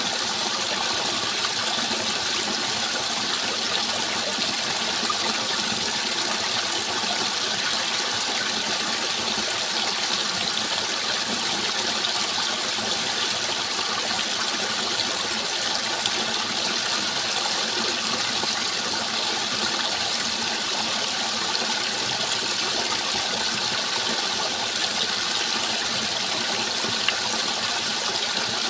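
Flowing water rushing steadily, with no breaks or changes.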